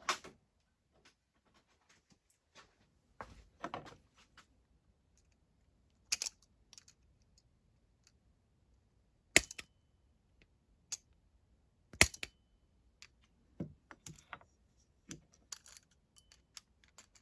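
Scattered small metallic clicks and scrapes of pliers gripping and working at a carburettor float pin that is stuck fast, with two sharper clicks standing out past the middle.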